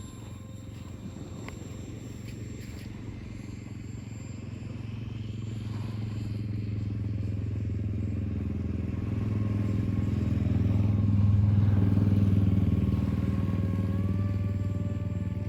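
Electric motor and propeller of a radio-controlled X8 flying wing in flight, a steady hum that swells to its loudest about two-thirds of the way through as the plane passes close, then eases. A thin, steady motor whine comes back near the end.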